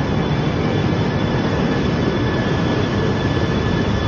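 Coupled E3 series 1000 and E2 series Shinkansen train pulling out of the platform at low speed, giving a steady, even running noise from wheels and traction equipment.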